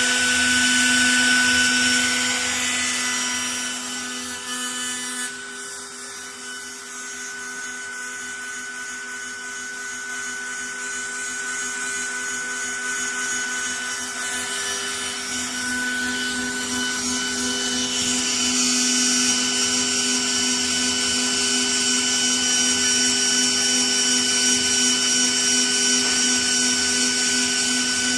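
6090 CNC router's spindle running with a steady high whine as the bit cuts MDF, with the hiss of cutting over it. The cutting noise drops away a few seconds in and builds back up in the second half.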